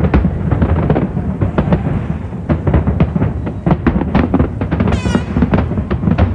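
Aerial fireworks shells exploding in a dense barrage: many sharp bangs a second over a deep, continuous rumble. A whistle falls steeply in pitch about five seconds in.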